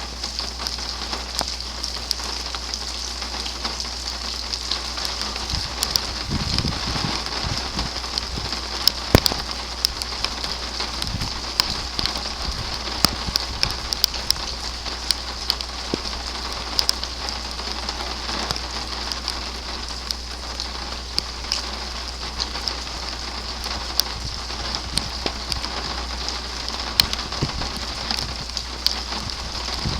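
Heavy rain falling steadily, with frequent sharp taps of drops striking a nearby surface. A low rumble comes in about six seconds in and again a little later.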